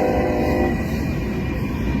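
A diesel locomotive's multi-chime air horn sounds a chord that stops less than a second in. The steady rumble of the passing train carries on under it and after it.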